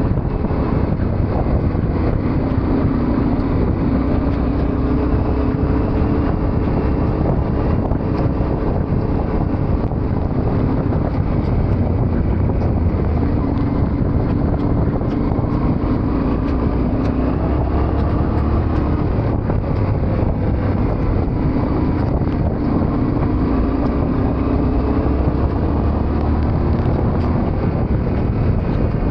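Yamaha Ténéré 700's parallel-twin engine running steadily under way, its pitch drifting gently with the throttle, with wind noise on the microphone.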